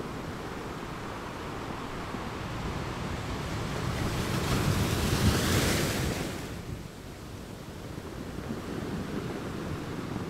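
Ocean surf ambience: a rushing wash of water that swells over a few seconds, peaks about five seconds in, and falls away sharply near seven seconds, like a wave surging in and drawing back.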